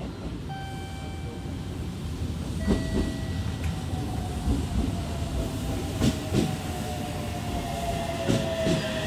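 Aichi Loop Railway 2000 series electric multiple unit arriving at the platform. Its wheels click in pairs over rail joints, and a motor whine slowly falls in pitch as the train slows.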